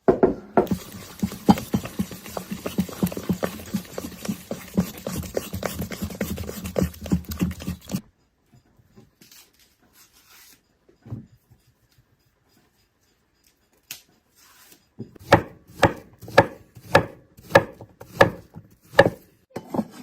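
A knife chopping on a wooden cutting board: a fast run of strokes over a low steady hum that cuts off abruptly about eight seconds in, then, after a pause, slower, heavier chops about two a second near the end.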